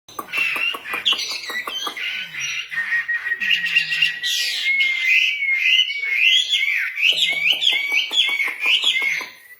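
A female wambi songbird singing continuously: rapid ticking chirps and rising-and-falling whistled notes, with a long level whistle through the middle, fading just before the end.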